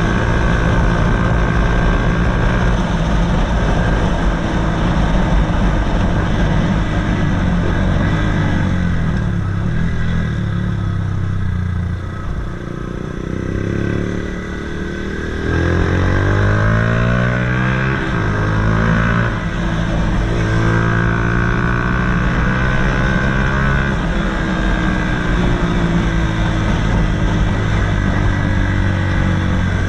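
Honda CBF125's single-cylinder four-stroke engine through a DanMoto GP aftermarket exhaust, running under way. It eases off about twelve seconds in, then pulls away with a rising pitch from about fifteen seconds in before settling to a steady note.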